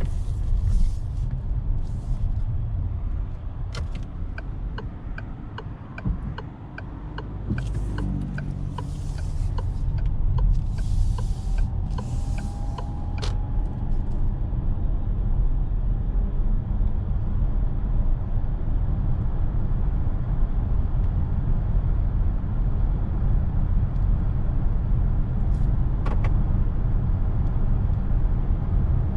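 Road and tyre rumble heard inside the cabin of a DS 9 E-TENSE 225 plug-in hybrid on the move, dipping briefly and then growing steadily louder over the second half. A regular ticking, about two ticks a second, runs through the first half and stops.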